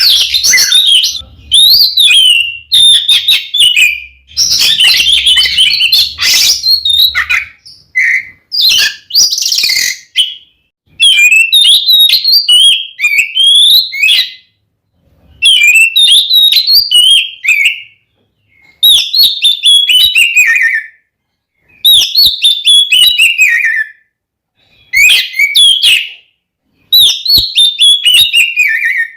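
Oriental magpie-robin (kacer) singing a loud fighting song: repeated phrases of rapid chattering notes and falling whistles, each lasting a couple of seconds, with short pauses between them.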